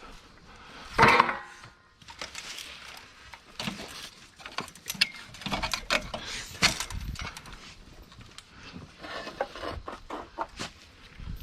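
Dogs eating from food bowls: scattered clatters and knocks of the bowls, the loudest a sharp burst about a second in.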